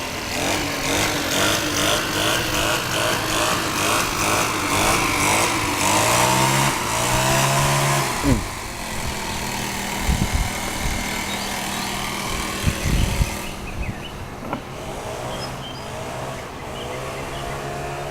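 An engine running, its pitch climbing over the first several seconds, then dropping to a steady low hum, with a few short knocks in the second half.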